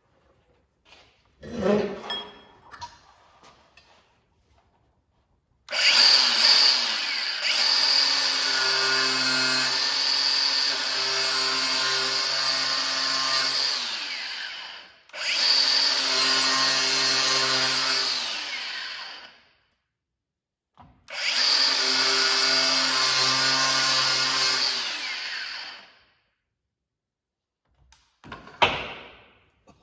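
A power tool with a thin cutoff wheel cutting through an old minibike tire's bead and steel belts to get it off the rim. It runs in three long passes, each winding down when the trigger is let go, with a short clatter before the first.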